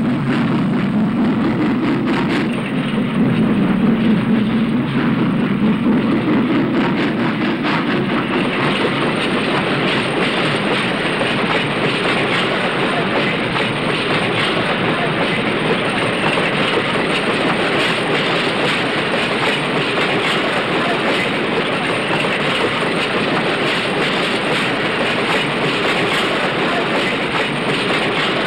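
Moving freight train with a steam locomotive, heard as steady running noise on an early sound-film soundtrack. The noise sits lower for the first several seconds, then turns brighter and hissier.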